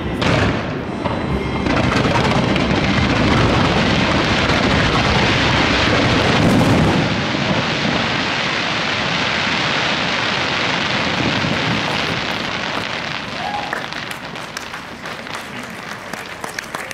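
Fireworks barrage: a dense, unbroken run of bursts and crackle that thins out over the last few seconds into scattered separate crackles.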